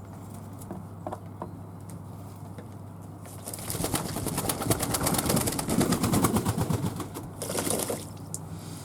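Fantail doves in a flurry, a loud run of rapid fluttering strokes starting about three seconds in and lasting about four seconds, with a shorter burst just after.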